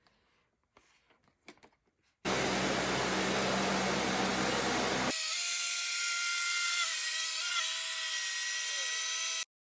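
A 13-year-old Dyson vacuum cleaner. After a few light clicks it starts running loudly with a low hum about two seconds in. Partway through the sound changes abruptly to a steady, higher motor whine with a few wavering tones, then stops suddenly just before the end.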